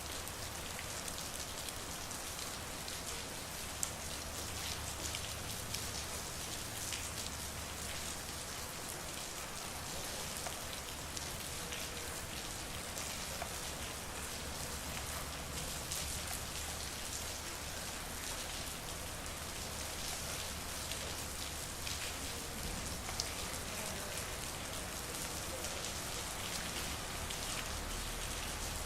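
Steady rain falling in a street: an even hiss with many individual drops ticking, and a few louder drips standing out.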